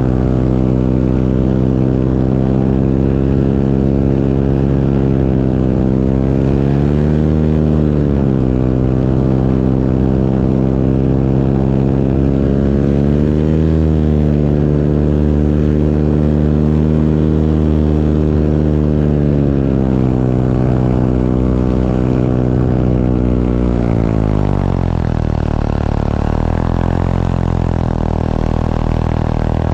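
A small propeller aircraft's engine drones steadily, its pitch rising and falling a little twice, then dropping lower near the end.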